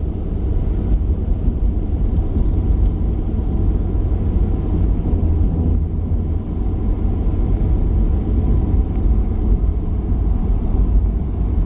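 Steady low rumble of a diesel pickup driving at road speed, heard from inside the cab: engine and road noise with no sudden events.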